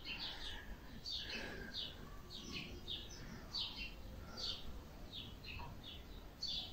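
Small birds chirping: a run of short, high, falling chirps, two or three a second, irregularly spaced.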